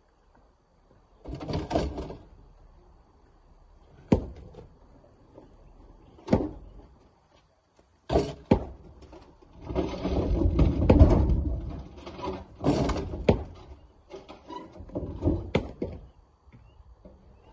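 Rocks being broken and loaded into a dump truck: irregular sharp knocks of stone striking stone or metal, between rattling bursts of rocks tumbling and scraping. The longest and loudest clatter comes in the middle.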